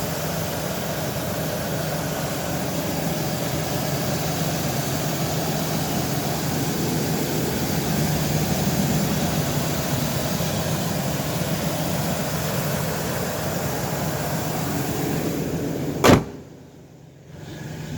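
Ford E-150 van engine idling steadily, an engine that has sat unused a long time and is due an oil change. Near the end a single loud thump, after which the engine sounds much quieter.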